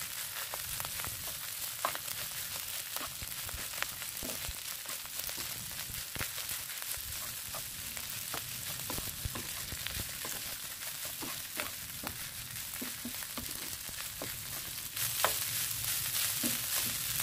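Leftover rice frying with garlic and hot dog in a pan while being stirred: a steady sizzle with many short scrapes and taps of the stirring utensil against the pan. The sizzle gets louder near the end.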